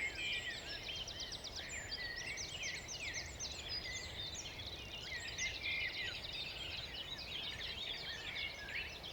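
Pre-dawn chorus of many songbirds singing at once, with overlapping chirps, trills and whistles over a low, steady background rumble.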